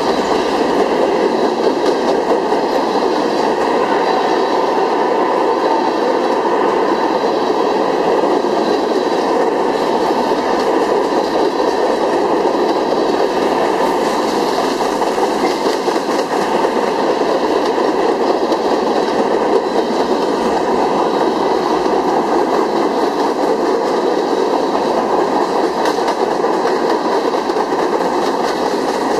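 Steady rolling noise of a CSX freight train's covered hopper cars passing close by, steel wheels running over the rails.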